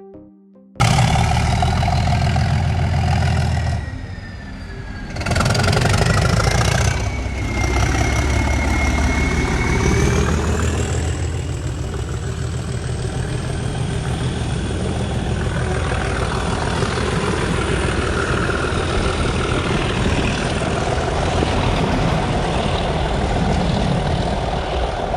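Class 37 diesel locomotive's English Electric V12 engine working hard, a loud low running sound, with a high whistle that glides and rises in pitch about ten seconds in.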